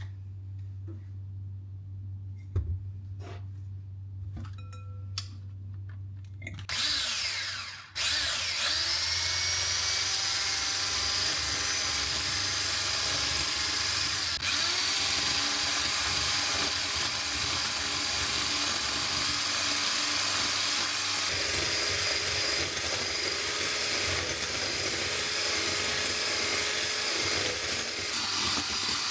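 Electric mixer switched on about seven seconds in, its motor whining up to speed and then running steadily as it whips, with a brief dip and recovery in pitch about halfway through. Before it starts there are a few light clicks of kitchen handling.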